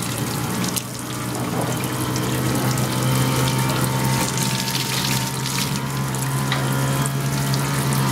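Steady road and engine noise heard inside a moving car: a constant low hum under an even rushing noise.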